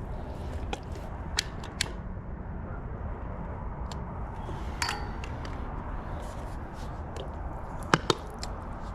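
Sharp metal clicks and clinks at a charcoal grill, one ringing briefly, and a quick double click near the end, over a steady low outdoor rumble.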